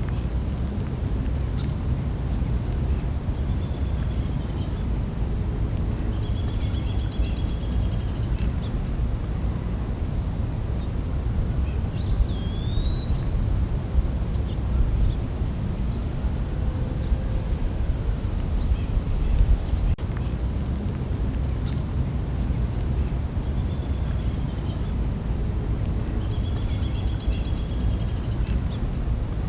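Night insect chorus: a steady high-pitched insect whine with rows of quick cricket-like chirps, about four a second, pausing now and then. A few short buzzing trills and one brief rising call about twelve seconds in come over a steady low rumble.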